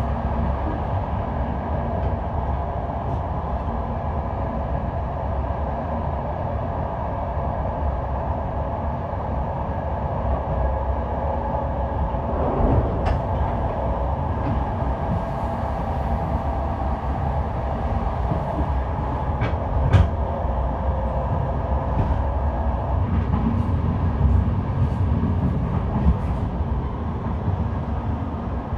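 Electric passenger train running, heard from on board: a steady low rumble with a faint steady hum, broken by a few sharp clacks of the wheels over the track, the loudest about twenty seconds in.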